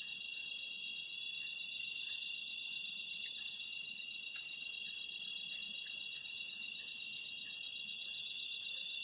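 Forest insect chorus: many insects trilling together in a steady, layered, high-pitched ringing that does not let up.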